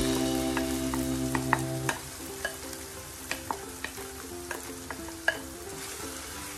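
Marinated chicken pieces sliding from a glass bowl into a hot frying pan of spiced onion paste and sizzling, with a wooden spatula scraping the bowl and stirring in the pan, giving scattered sharp clicks. It is louder for the first couple of seconds, then settles into a quieter sizzle.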